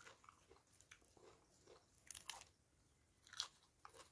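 Faint chewing of raw leafy greens eaten with papaya salad, a person's mouth crunching irregularly, with a few louder crunches about two seconds in and again near the end.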